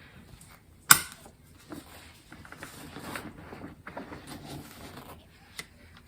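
Car seat harness being handled and buckled: straps and fabric rustling, with one sharp click about a second in and a smaller one near the end.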